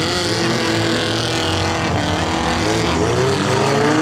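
Stock-car engines racing, their pitch rising and falling as the cars rev, with several engines overlapping.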